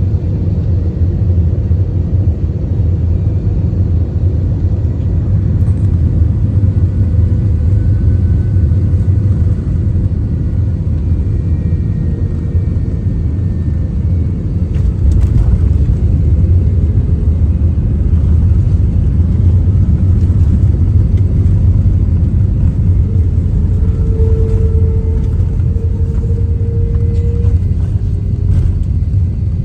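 Airbus A321-200 cabin noise on the descent: a loud, steady low rumble of engines and airflow, with a few faint clicks about halfway through.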